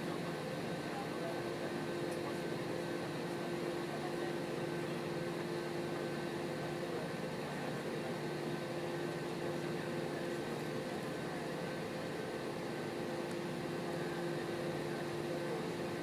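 Steady cabin noise inside an Airbus A320-214: an even air hiss with a few steady humming tones and no changes.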